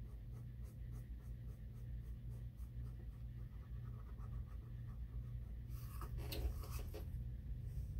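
Felt-tip permanent marker (Sharpie) scribbling on painted cardboard: quick short scratchy strokes, about four a second, filling in a drawn shape, with a louder scratchy stretch about six seconds in. A steady low hum runs underneath.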